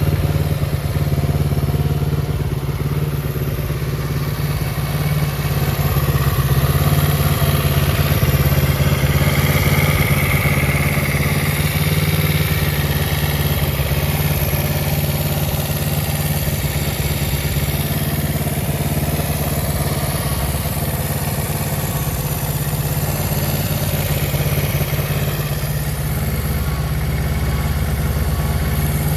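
Kawasaki Z250FT (KZ250A) 248 cc parallel-twin engine running steadily at idle through an aftermarket muffler.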